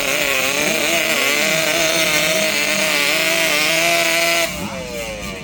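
Drag-racing motorcycle engine running at high revs near full throttle, its pitch holding high with slight wavers. About four and a half seconds in it drops sharply and glides down as the bike eases off or passes by.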